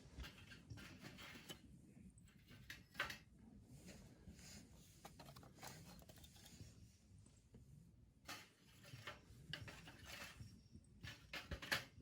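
Faint handling noises: scattered light rustles and a few soft knocks, the loudest about three seconds in and just before the end.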